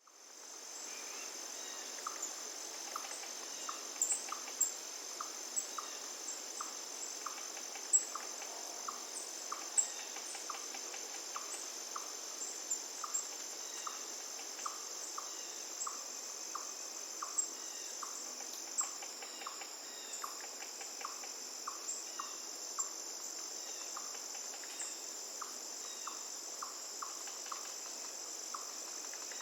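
Forest ambience fading in: a steady high-pitched insect chorus, with a short note repeated about twice a second and scattered brief bird chirps over it.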